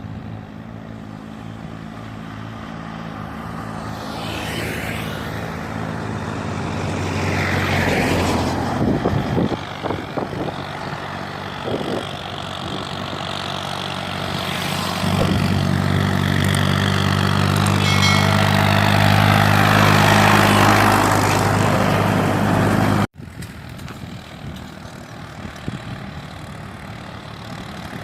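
Diesel tractor engines running under load, pulling fully loaded sugarcane trolleys, the engine note growing louder as a tractor draws near. Near the end the sound cuts off suddenly and a quieter engine carries on.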